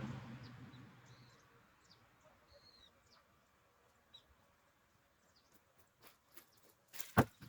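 Faint, scattered bird chirps over a quiet rural background, after a louder sound fades out in the first second. Near the end come several sharp knocks, the loudest about seven seconds in.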